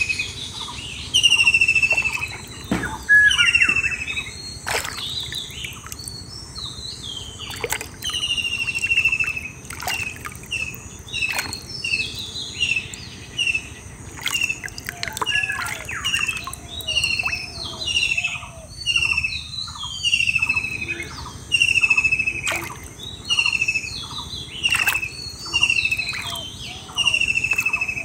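Birds calling: a falling whistled note repeats every second or two as the loudest sound, over many shorter chirps and twitters.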